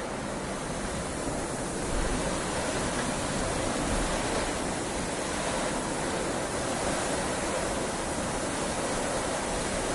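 Heavy rain falling steadily, an even, continuous hiss that gets slightly louder about two seconds in.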